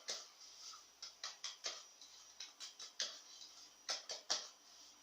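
Light, irregular taps and scratchy ticks of flour being shaken and tapped around an oiled cake pan to coat it.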